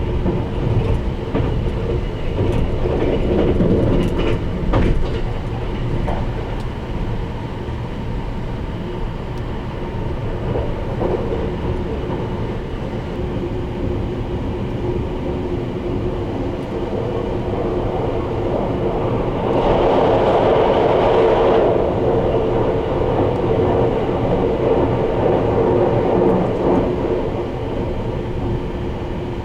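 Sunrise Seto 285-series sleeper train running at speed: a steady rumble and hum with a few sharp clicks from the wheels over the rails. About two-thirds of the way through the noise swells louder for a couple of seconds, then settles.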